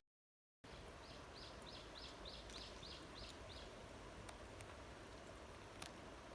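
A bird calling a quick run of about nine short, high chirps, about three a second, over a faint steady outdoor hiss, with a few faint clicks later on.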